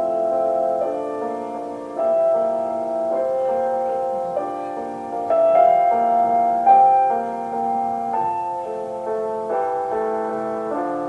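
Solo piano playing a slow, gentle classical melody, the notes held and changing about once a second.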